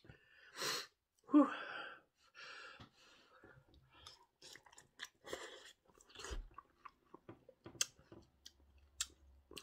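A man blows out a breath and says 'whew' at the chili heat of spicy instant noodles, then takes a forkful and chews, with many small wet mouth clicks and light taps.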